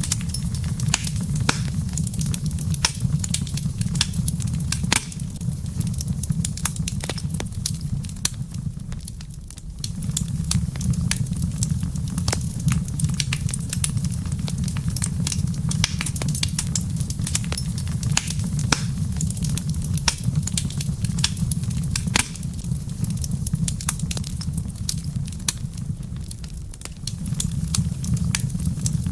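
Wood fire in a fireplace crackling, with frequent sharp pops over a steady low rumble. The rumble dips briefly twice.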